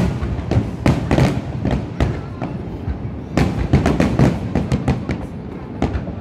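Aerial fireworks display: shells bursting in an irregular run of sharp bangs, thickest in a rapid cluster from about three and a half to four and a half seconds in.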